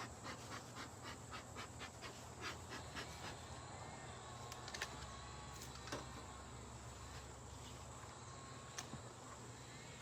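Honeybees buzzing around a hive, a faint hum that rises and falls in pitch as they fly past. A quick run of small clicks and taps fills the first few seconds, with a few single clicks later.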